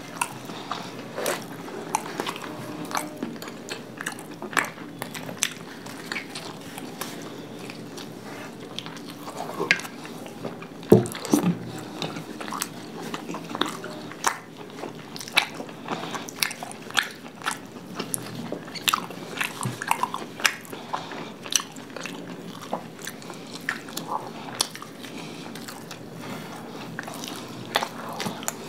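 Two people chewing and biting soft paratha flatbread with curd, close to the microphone. Wet chewing and mouth smacks come as many short, sharp clicks, with a louder cluster near the middle.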